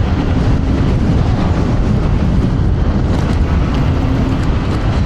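Strong wind rushing over the rider's clip-on microphone while riding an electric scooter: a loud, steady low rumble. A faint tone comes and goes within it.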